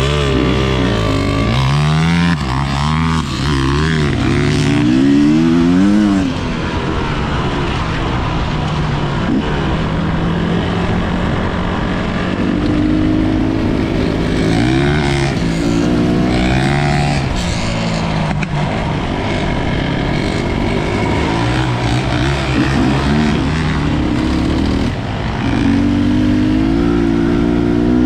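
250 cc enduro dirt bike engine being ridden, the revs repeatedly climbing and dropping as the rider works the throttle and gears.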